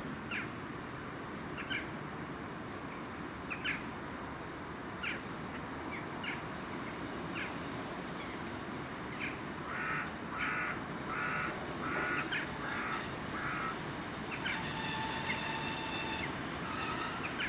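Bird calling outdoors: scattered short calls, then a run of about seven harsh calls in quick succession about ten seconds in. A brief steady tone follows near the end.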